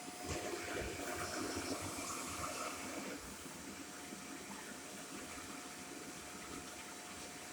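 Shark corded Lift-Away vacuum cleaner running: a steady rush of air with a thin motor whine, louder for the first three seconds or so.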